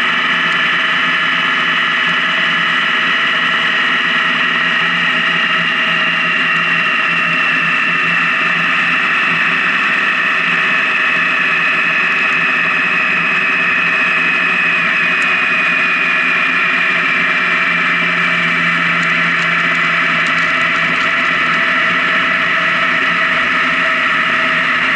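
Honda Gold Wing touring motorcycle running at highway speed, engine drone and riding noise steady, its pitch sinking slowly as the bike eases off.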